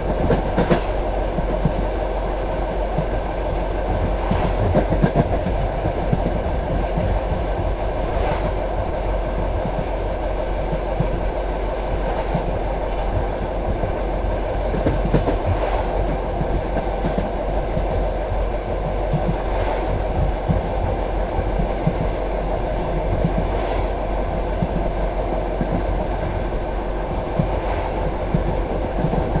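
Passenger railway carriage running along the track: a steady rumble of wheels on rails, with a clack at fairly even intervals of about four seconds.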